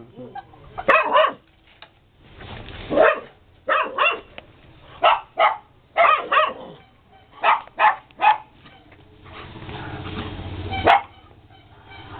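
A dog barking repeatedly in short, sharp barks, singly and in quick pairs, about a dozen in all with brief pauses between.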